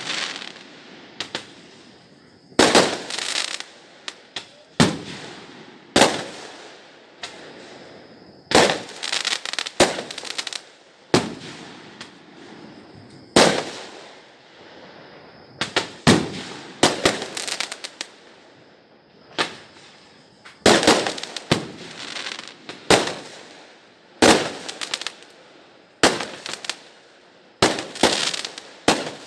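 Aerial fireworks going off in a steady series of loud bangs every second or few, some in quick crackling clusters, each fading away.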